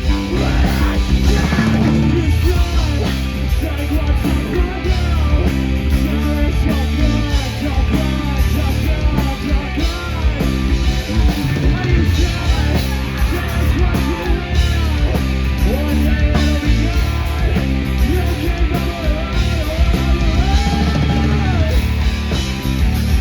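Loud punk rock music: guitars and drums with yelled vocals.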